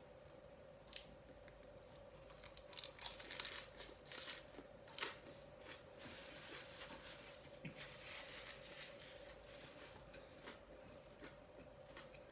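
Crisp fried spring roll (lumpiang toge) being bitten and chewed, its wrapper crackling in a run of sharp crunches, densest about three to five seconds in and softer after. A faint steady hum underneath.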